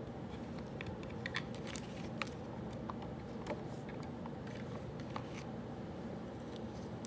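Small desk-work clicks and ticks, scattered irregularly and stopping about five and a half seconds in, over a steady room hum.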